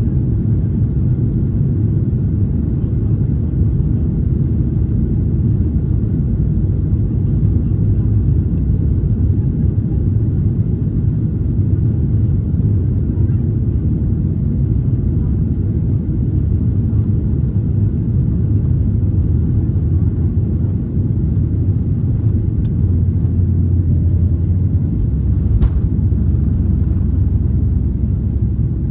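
Cabin noise of a Boeing 737-800 with CFM56-7B engines under power for takeoff, heard from a seat inside the cabin. It is a loud, steady, low rumble with a slight shift in the low tone near the end.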